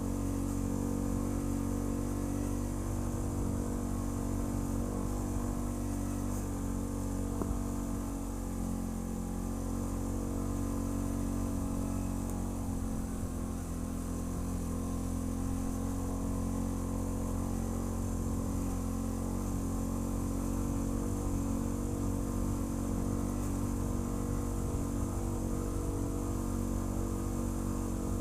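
ATV engine running steadily, its pitch holding nearly constant throughout.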